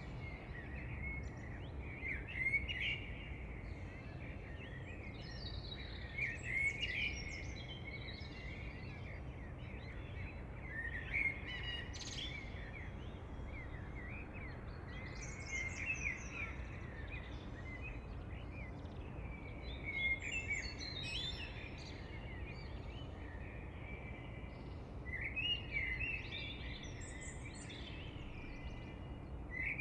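Several birds chirping and singing, many short overlapping calls at a high pitch coming and going throughout, over a steady low background rumble.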